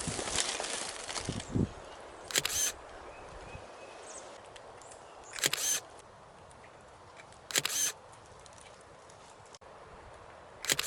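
Camera shutter firing four times, a few seconds apart, each shot a quick double click. There is some rustling in the first second or so.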